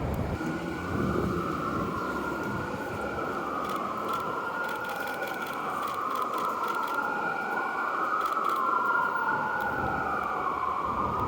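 Emergency vehicle siren wailing, its pitch slowly rising and falling about every three seconds, over a steady background hiss.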